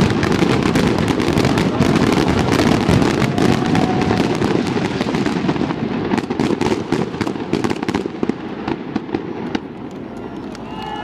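Fireworks going off in a dense, rapid barrage of bangs and crackling over a continuous rumble, thinning out and dying down near the end.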